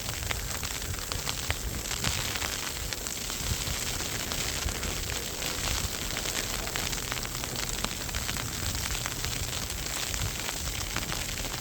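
Snowstorm wind buffeting the microphone with a low rumble, over a steady crackling hiss of blowing snow.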